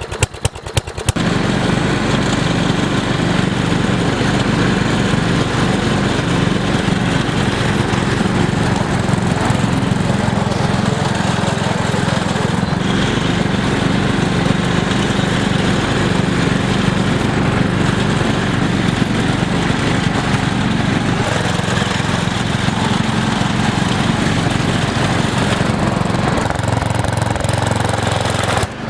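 MTD lawn tractor's small petrol engine starting about a second in, after a few sharp clicks, then running steadily.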